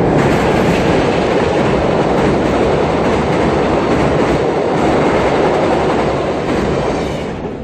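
Passenger train hauled by a Korail electric locomotive crossing a steel truss railway bridge: the wheels rumble and clatter over the rails and the steel girders in one loud, steady run. The sound fades near the end as the train moves on.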